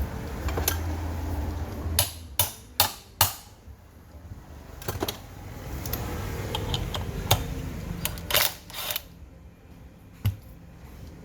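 A series of sharp clicks and knocks as tools or parts are handled during a repair: four quick ones about two seconds in, then scattered single ones, over a low hum at the start.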